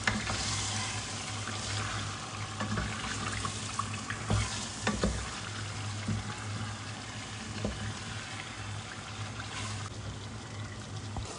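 Chicken pieces and fried spice paste sizzling in oil in a small pot while being stirred, with a few short clicks of the stirring utensil against the pot. The chicken is being seared until its outside is cooked.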